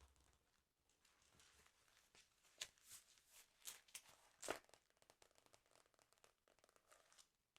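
Faint paper handling of a football sticker album: soft rustles and crinkles with a few sharper crackles, the sharpest about four and a half seconds in.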